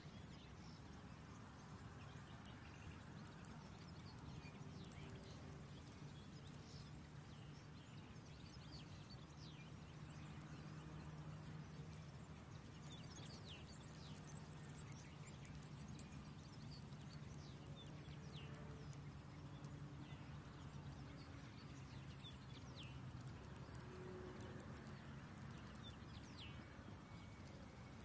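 Faint, high bird chirps, many short falling notes scattered throughout, over a low steady hum.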